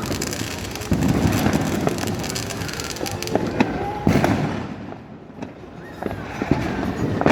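Fireworks going off: a string of sharp bangs with crackling between them, dying down briefly about five seconds in before the bangs start again.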